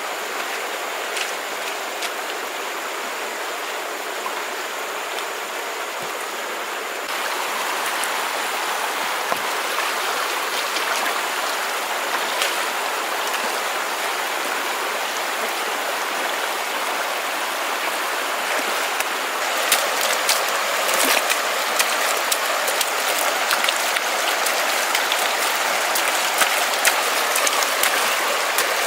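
Running water rushing steadily, with many sharp clicks and taps over it in the last third.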